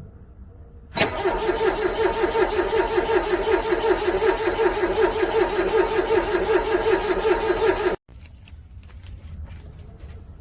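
A car engine cranking on its starter in freezing cold, churning rhythmically without catching. It starts about a second in, goes on for about seven seconds and cuts off suddenly.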